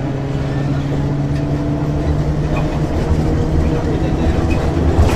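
Ikarus 435 articulated bus with ZF gearbox under way, its diesel engine giving a steady low drone with some rattles, growing slightly louder toward the end.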